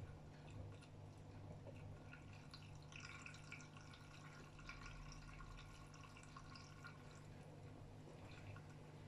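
AEG Öko-Lavamat 76910 washing machine running quietly: faint water sloshing and dripping inside the drum over a steady low hum.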